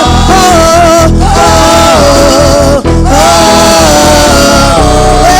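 Live gospel praise music: a band playing under voices singing long held notes of a praise chorus, with a brief break about three seconds in.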